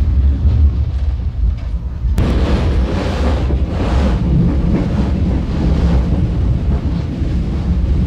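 Passenger train coach running along the track, heard from inside the carriage by the window: a continuous heavy rumble. About two seconds in it changes abruptly and takes on more hiss.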